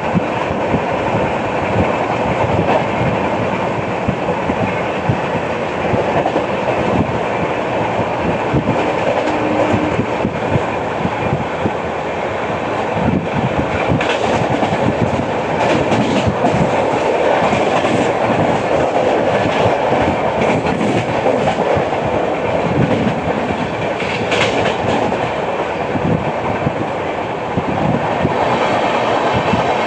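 Passenger express train running on the track, its wheels clattering over the rails in a continuous rapid knocking, with brief higher squeaks and crackles now and then.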